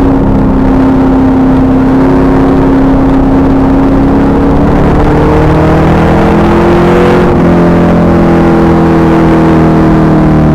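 2000 Pontiac Trans Am Firehawk's LS1 V8 pulling hard under load, its pitch climbing steadily until a gear change about seven seconds in drops it, then climbing again. The recording is very loud and distorted.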